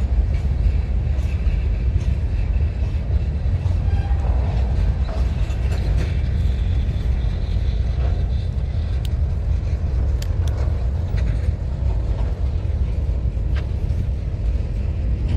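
Train rolling past with a steady, heavy rumble, and a few brief high squeaks or clicks from the wheels and cars about two-thirds of the way through.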